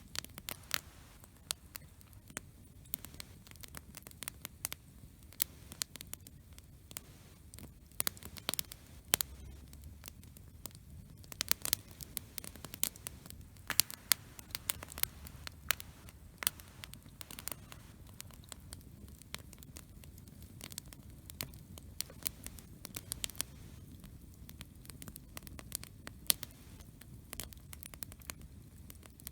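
Wood campfire crackling: irregular sharp pops and snaps, several a second, over a faint low hiss of the burning fire.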